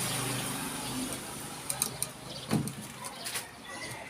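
A few light clicks and knocks from hand carpentry work, scattered over the seconds.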